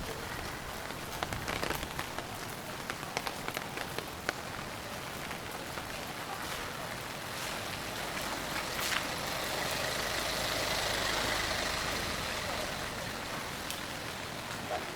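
Steady rain with scattered drops ticking. A vehicle passes on the wet street, swelling and fading about ten to thirteen seconds in.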